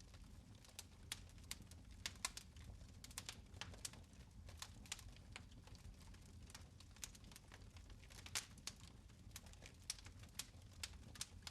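Fire crackling in a fireplace, with irregular sharp snaps and pops, several a second, over a faint low rumble.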